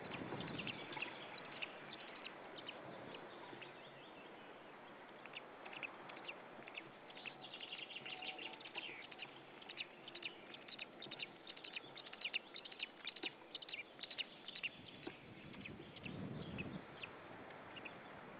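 Faint, short, high bird chirps, many in quick succession and busiest through the middle, over a steady outdoor hiss, with a brief low rumble near the end.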